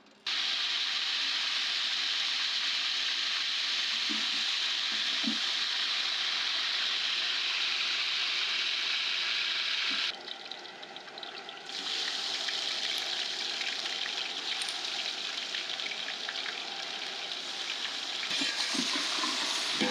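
Food sizzling in hot oil in a cooking pan: a steady frying hiss that starts suddenly, drops away briefly about ten seconds in, then resumes.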